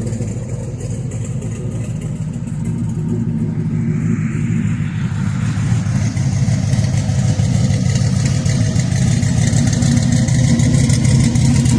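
Engine of a twin-turbocharged GM G-body car running with a steady low drone that grows gradually louder. A brief higher hiss swells about four to six seconds in.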